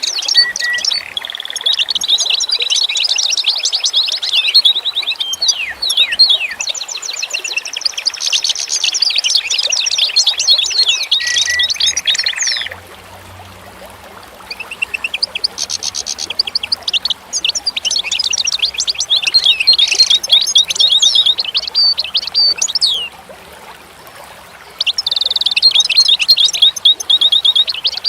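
Birdsong: fast, busy chirps and trills in long phrases, with two short pauses partway through.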